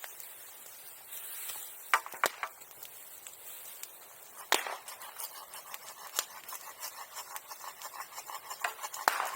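Bonfire crackling, with a few sharp pops and a denser run of small crackles in the second half.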